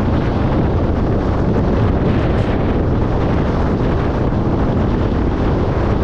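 Car driving at motorway speed: a steady rush of road and wind noise.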